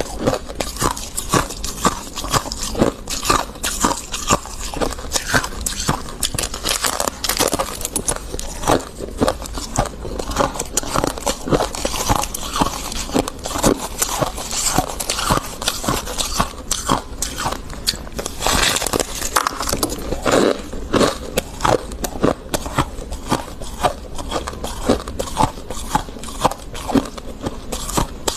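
Freezer frost being bitten and chewed close to the microphone: a dense, continuous run of crisp crunches and crackles.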